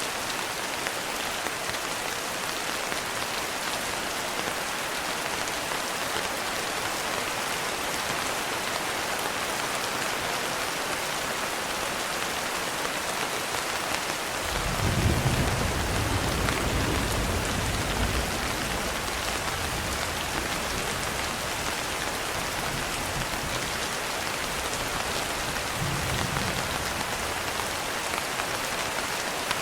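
Steady rain falling, an even hiss of drops. About halfway through, a low rumble of distant thunder swells up and fades over a few seconds. A shorter, fainter rumble follows near the end.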